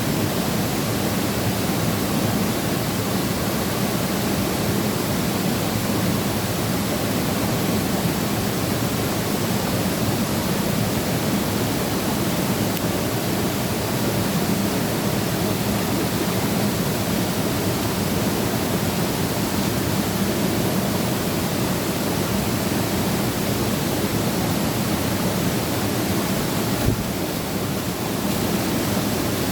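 Yongji Falls, a mountain-valley waterfall, pouring in a steady, even rush with a deep low rumble. A single brief knock sounds near the end.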